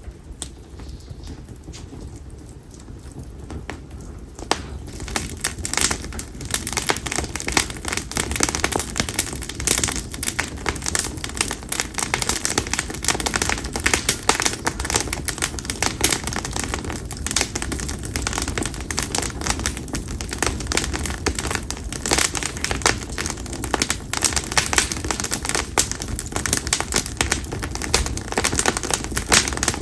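Split konara oak firewood burning in an open bonfire, crackling and popping with dense, irregular snaps. The crackling is sparse at first, then grows thicker and louder about four to five seconds in.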